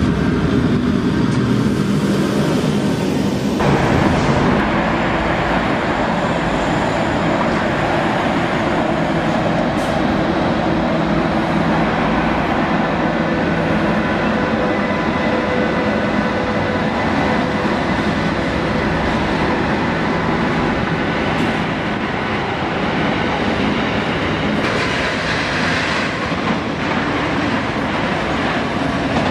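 An electric locomotive running past close by for the first few seconds, then a long freight train of tank wagons rolling past steadily, with wheels clacking and rumbling on the rails and some faint steady tones.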